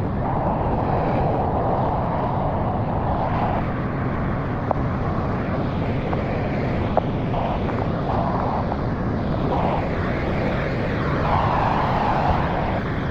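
Pressure washer running steadily, with a higher hiss that swells and drops back several times and two faint clicks.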